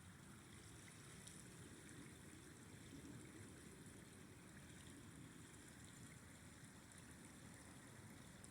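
Faint, steady rushing of a flowing river, mostly low-pitched and even, with no breaks.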